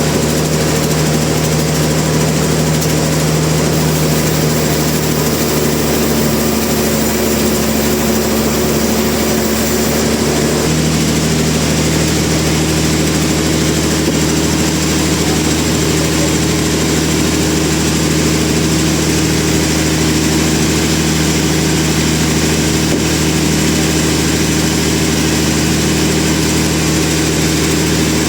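A large engine running steadily, a continuous hum whose pitch changes suddenly about ten seconds in, in the sawmill machinery.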